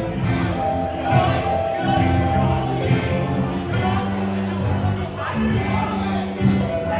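Live band playing, with drums keeping a steady beat on the cymbals under sustained bass and guitar notes, and a singing voice.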